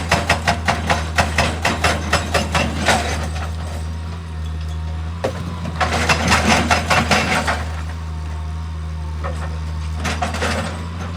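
Diesel engine of heavy earthmoving machinery running steadily. Over it come two bursts of rapid, evenly spaced knocking at about four a second: one through the first three seconds and another about six seconds in.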